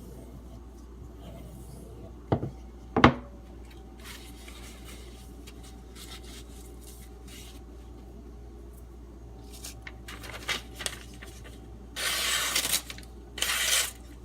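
Two sharp clinks a little after two seconds in, as a steel knife or tool is set down on a hard surface. Near the end come a few short, hissy scraping strokes of the blade.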